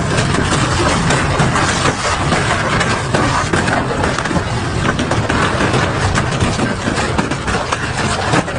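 Double-shaft industrial shredder running under load and tearing metal: a continuous heavy rumble from the machine with dense, irregular cracking and crunching as the metal is ripped apart.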